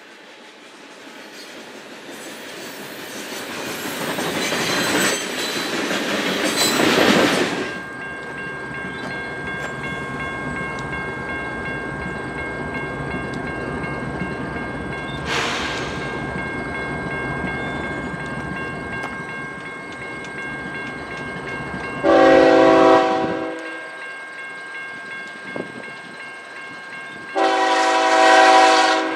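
A train passing, loudest a few seconds in, then a steady rumble of rolling cars with thin steady ringing tones over it. A locomotive horn sounds two short chord blasts, about five seconds apart, the second near the end.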